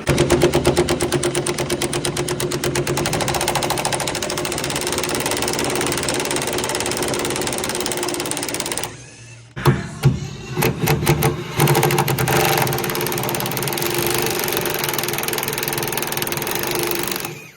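Impact wrench hammering at the body-to-chassis bolts of a 1965 VW Beetle, a fast rattling run that stops about nine seconds in, followed by a few short bursts and then another long run.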